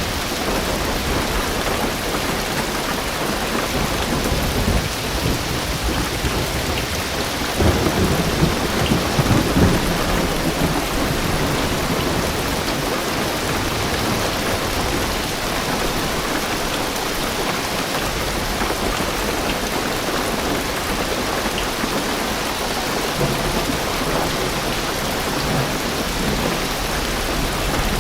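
Heavy rain drumming steadily on a car roof and windows, heard from inside the car. A low rumble of thunder swells about a quarter of the way in and fades after a few seconds.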